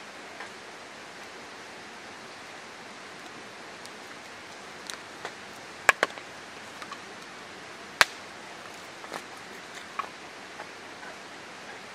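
Wood campfire crackling: a steady hiss with irregular sharp pops, the two loudest about six and eight seconds in.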